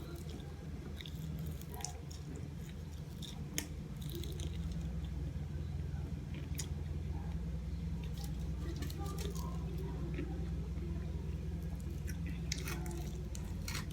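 A person chewing food close to the microphone, with scattered short mouth clicks and smacks over a steady low hum.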